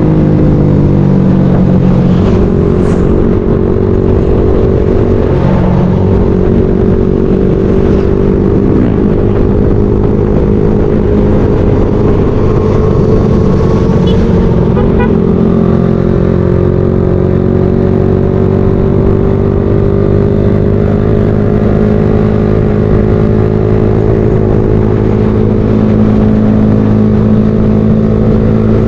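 Motorcycle engine running steadily under way, heard from the rider's own bike, its pitch dipping and rising gently a few times with the throttle.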